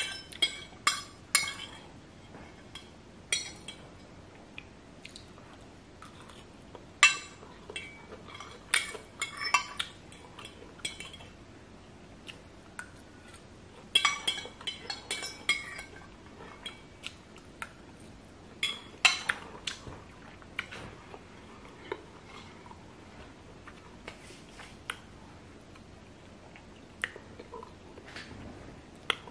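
Cutlery clinking and scraping against a plate during eating, in scattered clusters of short sharp clinks that thin out near the end.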